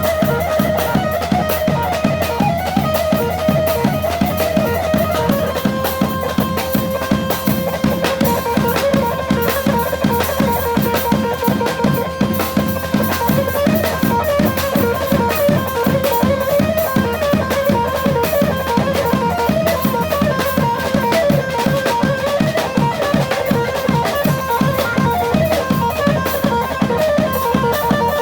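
Amplified folk dance music in 6/8 time, a domki tune: a plucked-string melody winding over a steady, fast drum beat.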